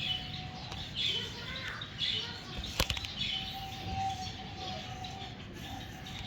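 Finches chirping in short high calls, roughly one a second, with a brief sharp clatter about halfway through.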